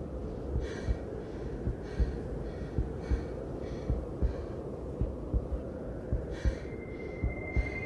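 A heartbeat beating in pairs over a low rumble, with heavy breaths about once a second from a woman hiding out of breath. A thin steady high tone comes in near the end.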